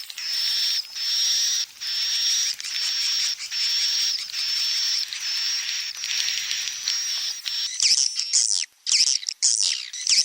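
Edible-nest swiftlet calls, the 'panggil' lure sound played to draw swiftlets into a nest house: a run of about nine buzzy, rasping high chirps, each just under a second long with a thin whistle over it, then from about eight seconds a quick series of short chittering twitters.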